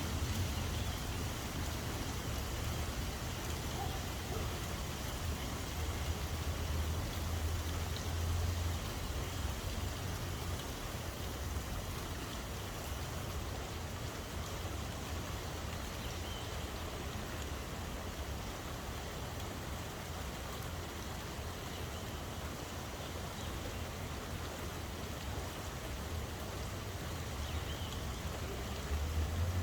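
Steady rain falling, an even hiss of drops on surfaces, with a low rumble underneath that is stronger in the first third and again near the end.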